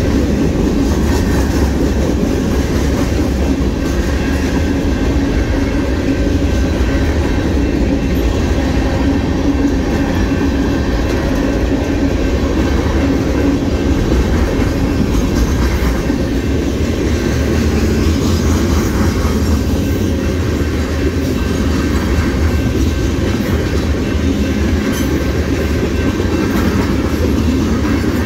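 Union Pacific mixed freight train's cars rolling past at speed: a steady, loud rumble of steel wheels on the rails.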